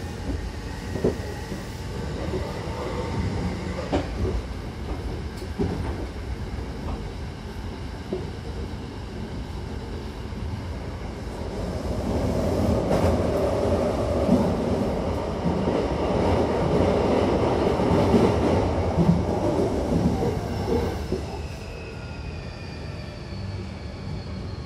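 Hankyu Kyoto Line commuter train running, heard from inside the car: a steady rumble of wheels on rail with scattered clacks, growing louder through the middle. Near the end the noise eases and a thin whine falls in pitch as the train slows.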